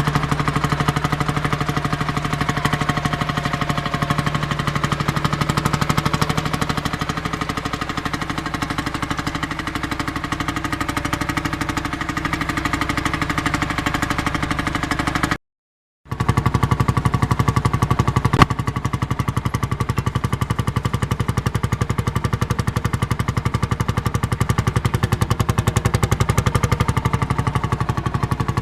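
Marshall crawler tractor's single-cylinder two-stroke diesel engine running steadily with a regular, rapid beat. The sound cuts out for under a second about halfway, and a single sharp crack sounds a couple of seconds later.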